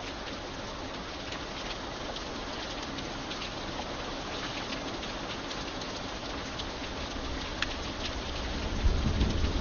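Steady rain with many individual drops ticking sharply on a surface. Near the end a low rumble of thunder begins to build and the rain grows louder.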